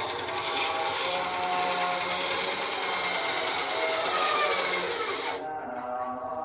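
RYU RBS 8 bandsaw cutting through wood, a loud dense rasping from the blade in the cut. About five seconds in the cutting noise stops suddenly, as the blade finishes the cut, and the saw runs on more quietly.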